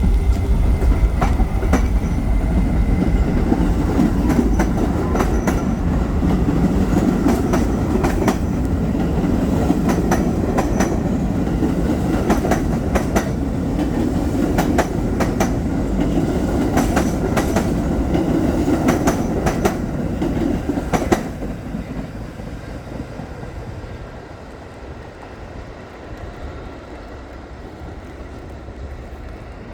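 A train running on rails: a loud low rumble with the wheels clacking over the rail joints. About two-thirds of the way through, the clacking stops and the level drops suddenly, leaving a quieter rumble.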